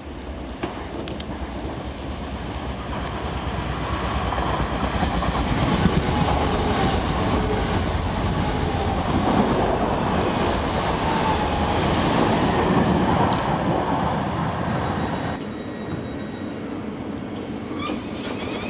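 Class 377 electric multiple unit approaching and running through the station at speed. The rumble and clatter of its wheels on the rails builds over several seconds, is loudest in the middle as it passes, then fades away.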